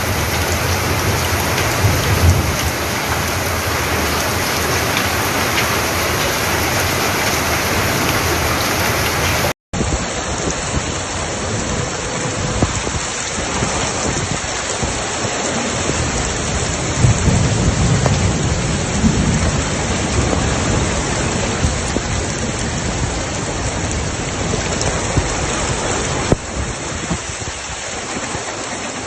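Heavy rain pouring down steadily, with low rumbles of thunder now and then. The sound changes abruptly about ten seconds in, where one recording cuts to another.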